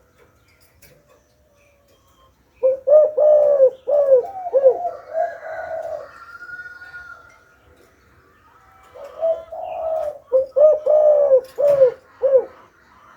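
Spotted dove cooing its call in two phrases, each a run of short, arched coo notes, the first about three seconds in and the second about nine seconds in.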